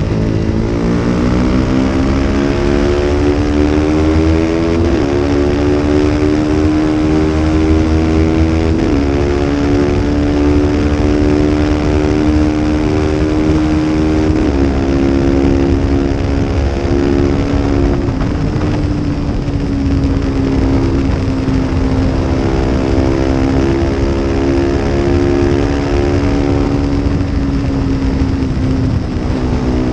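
Small-displacement racing motorcycle engine at full throttle, climbing in pitch and then upshifting four times in quick succession, each shift a sudden step down in pitch, before running on at near-steady revs and easing slightly near the end.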